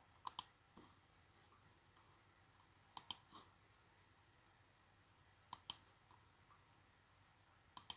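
Computer mouse button clicking in pairs: four quick double clicks a couple of seconds apart.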